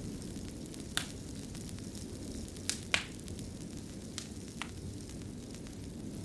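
Wood fire burning in a fireplace: a steady low rumble with irregular sharp crackles and pops, about six in all, the loudest pop about three seconds in.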